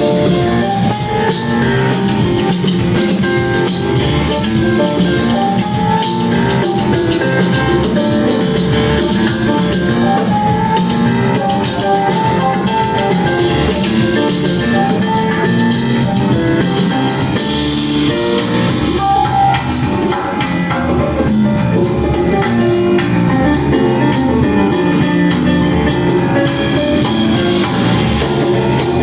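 Live band music played loud and without a break, led by a drum kit and guitar.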